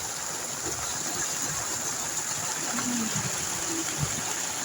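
Rain falling steadily, an even hiss of rainfall.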